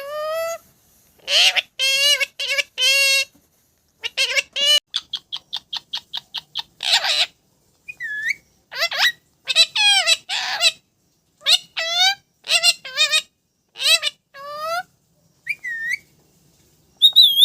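Pet parrot calling and whistling: a string of short, high, pitch-bending calls in speech-like phrases, with a quick run of about a dozen clipped notes in the middle and a few single looping whistles near the end.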